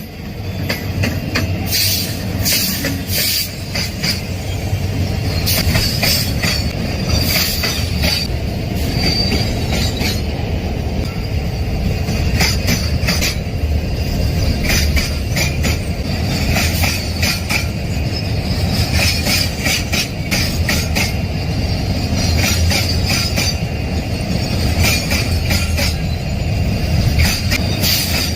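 Train running past on the rails: a steady rumble of rolling wagons, with repeated clacks over the rail joints and a high wheel squeal that comes and goes.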